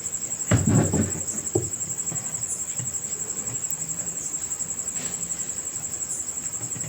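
A cricket trilling steadily at a high pitch, with a brief low-pitched handling sound about half a second in.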